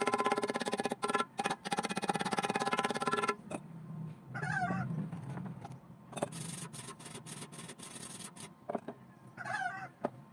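Stick welding with an E6013 rod on a car muffler: the arc crackles and buzzes with a steady hum, breaks off twice for a moment about a second in, stops at about three seconds, and strikes up again for about two seconds. A chicken calls twice in the background, in the pause and near the end.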